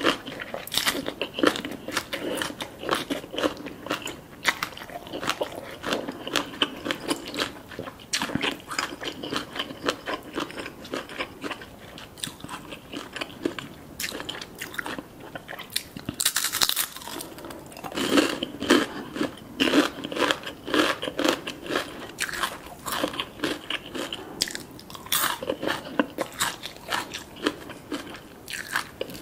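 Close-miked eating: a rapid run of crisp crunches and chewing as crispy fried chicken skin and raw cabbage leaf wrapped around papaya salad are bitten and chewed. A louder burst of crunching comes about two-thirds of the way in.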